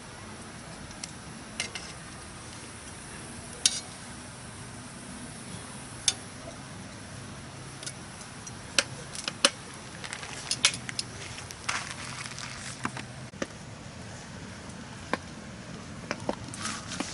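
Campfire crackling: a steady hiss with irregular sharp pops and snaps from the burning wood, coming thicker between about nine and eleven seconds in.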